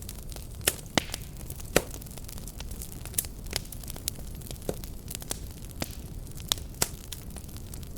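Wood fire burning steadily: a low rumble with sharp, irregular crackles and pops, a few loud ones among many small ones.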